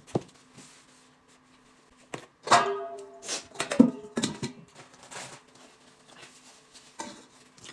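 Stainless steel basins set down upside down over plates on a table: several clanks with brief metallic ringing, a couple of seconds in.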